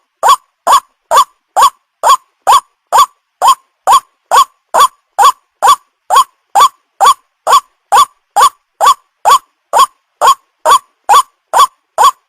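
White-breasted waterhen call played as a bird-lure track: the same short, rising call repeated evenly, about two to three times a second, with silent gaps between.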